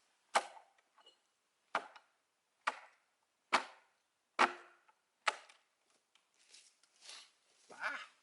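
Axe chopping into oak wood, six sharp strokes a little under a second apart, then lighter, scattered knocks near the end, as the last fibres holding the split log halves together are cut.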